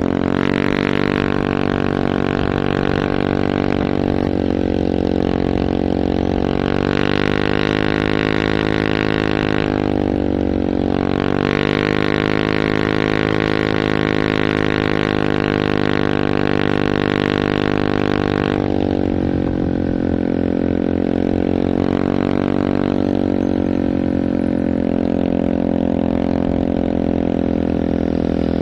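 Heavy truck diesel engine running hard under load, a steady low drone whose pitch dips and rises a little a few times as the throttle changes.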